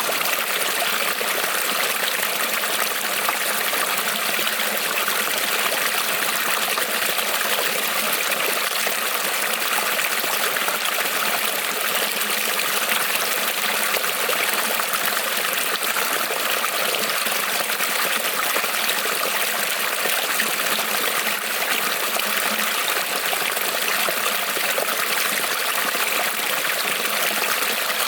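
Shallow creek rippling and trickling over stones, a steady, even rush of running water.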